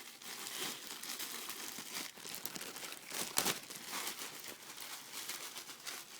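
Packaging around a pair of jeans being handled and opened, with irregular crinkling and rustling and a sharper crackle about three and a half seconds in.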